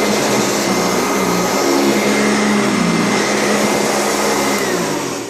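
Euroclean upright vacuum cleaner running, a steady whine over a low hum that wavers in pitch. Near the end the motor is switched off and its whine winds down, falling in pitch and fading.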